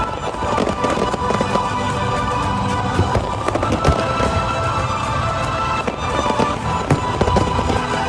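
Fireworks going off in quick succession, many sharp bangs and crackles, over music that plays throughout.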